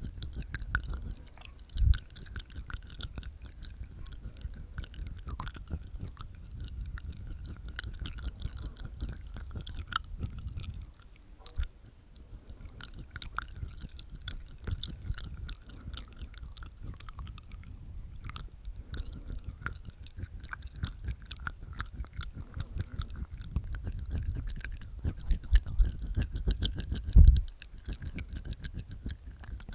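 Close-miked ASMR mouth sounds from inside the mouth: rapid, wet tongue clicks and teeth sounds, with a short lull about eleven seconds in and two louder low thumps, one near the start and one near the end.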